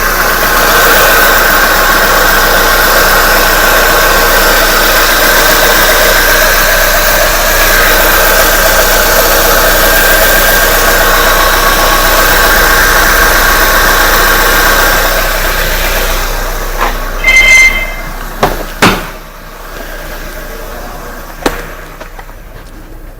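Fiat Punto 1.8 engine running steadily, then shut off about sixteen seconds in. As it stops there is a brief high-pitched tone and a few sharp knocks: the noise this car makes on switching off.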